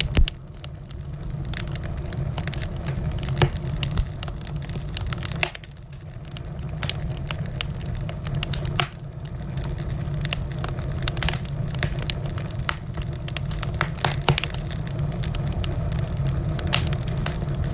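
Wood fire burning in a fireplace: a steady low rumble of flames under irregular crackling, with a few sharper, louder pops from the logs scattered through.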